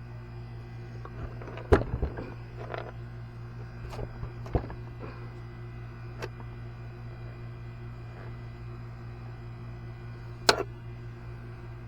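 A few sharp clicks and knocks, hard objects being handled, the loudest about two seconds in and near the end, over a steady low hum.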